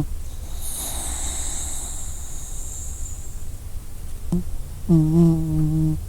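Dog snoring: a long, whistly hiss of breath, then, about five seconds in, one pitched snore lasting about a second, over a low steady rumble.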